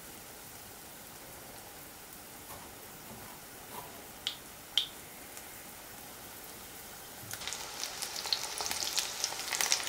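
Breadcrumbed green tomato slices frying in vegetable oil in a frying pan: a faint steady sizzle with two light clicks around four to five seconds in. From about seven seconds in the sizzle grows louder and crackly as a full pan of slices fries.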